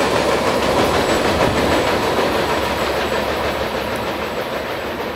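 Steel wheels of a passing train's last cars rolling on the rails, a steady rumble and rattle that slowly fades as the end of the train moves away.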